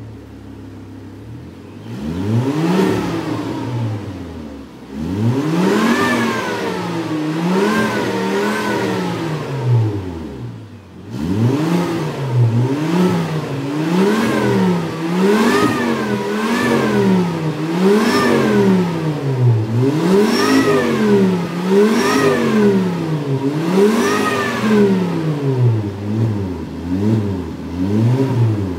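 Volvo S80 engine heard through an aftermarket VMAI-R exhaust, idling briefly and then revved up and down over and over: a few longer revs first, then quick regular blips about every couple of seconds.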